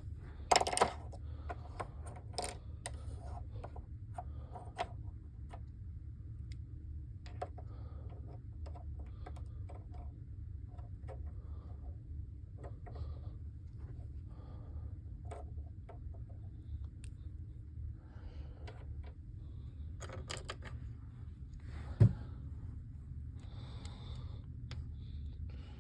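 Scattered small clicks and taps of things being handled, over a steady low hum, with sharper clicks about half a second in and again near 22 seconds.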